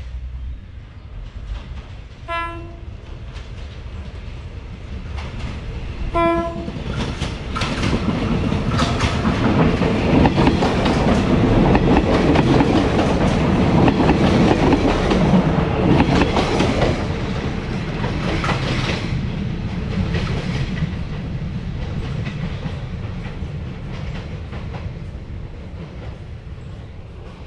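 Two short horn blasts from an approaching passenger diesel railcar, about four seconds apart. Then the train passes close by, its noise building to loudest in the middle and fading away toward the end.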